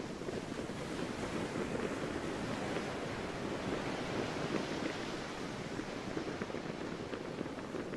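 Sea surf washing steadily, with some wind.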